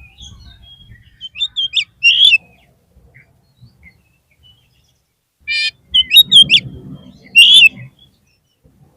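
Oriental magpie-robin (kacer) singing: loud, sharp whistled and chattering notes in two bursts about three seconds apart.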